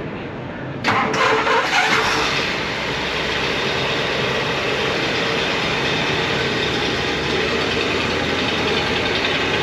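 A vehicle engine starts about a second in and then runs at a steady idle.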